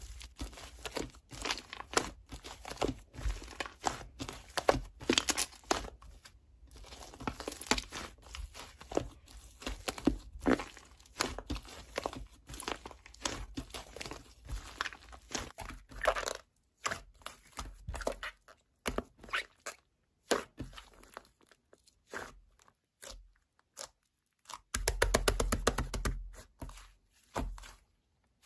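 Slime being squeezed and pressed by hand, giving dense, irregular crunching and crackling. Past the middle it thins to separate snaps and pops with short pauses, then turns dense again near the end.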